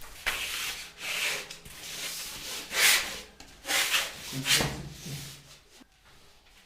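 Irregular rubbing and scraping as hands work a threaded pipe plug, winding hemp tow onto its threads before it is sealed, in short uneven strokes that die away near the end.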